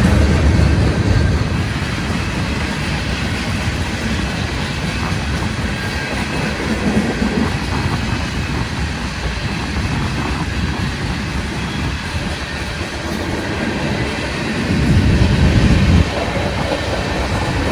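Train rolling past on the track, its cars running by in a steady rush of wheel and rail noise. A heavier low rumble comes at the start and again near the end, where it cuts off suddenly.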